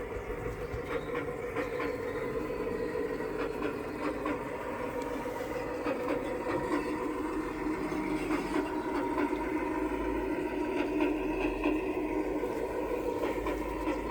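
Garden-scale model train running on its track: a steady motor hum with scattered light clicks, growing a little louder toward the end.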